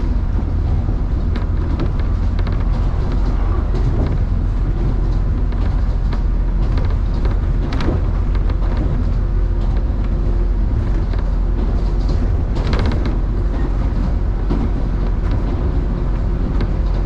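Electric commuter train running between stations, heard from inside the passenger car: a steady low rumble of wheels on rail with a faint hum and scattered clicks and knocks.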